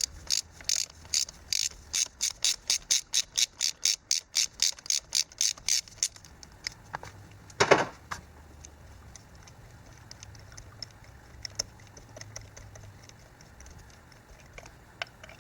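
A socket ratchet clicks steadily as an old spark plug is backed out of a Hummer H3's inline-five engine. The clicks quicken until they stop about six seconds in. A single louder knock follows near eight seconds, then a few faint ticks.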